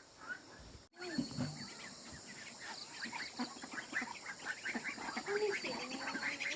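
A flock of ducks quacking and calling in quick, overlapping bursts, starting after a short break about a second in.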